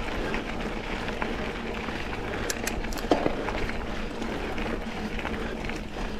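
Mountain bike riding along a dirt double-track trail: steady rolling tyre and wind noise, with a few sharp clicks and rattles about halfway through.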